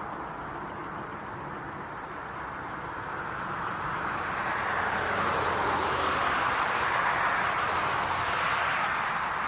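Airliner's engines rushing as the plane passes, swelling to a peak about two-thirds of the way in and easing off again.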